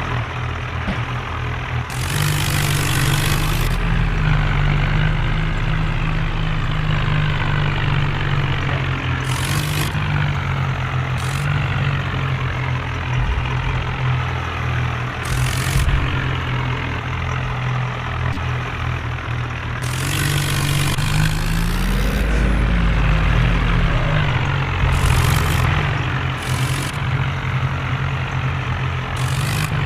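Diesel tractor engine running hard under heavy load in a tractor tug-of-war pull, a steady low drone, with repeated short bursts of hissing noise over it.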